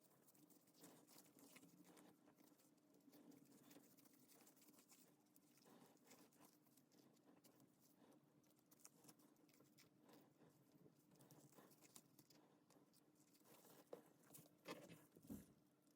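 Near silence: faint scattered light clicks and taps over a low steady hum, with a few louder knocks near the end.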